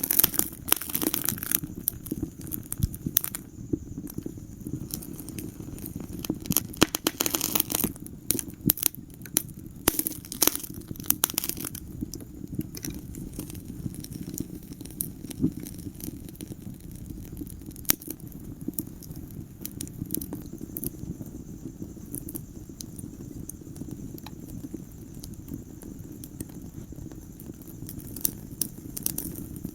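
Wood fire in a fireplace crackling and popping over a steady low rumble of the flames. The pops come thick around the start, again from about eight to twelve seconds in and near the end, and are sparser in between.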